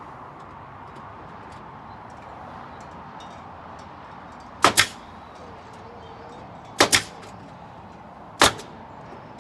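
Three sharp knocks about two seconds apart, the first two each a quick double strike, over a steady background hiss.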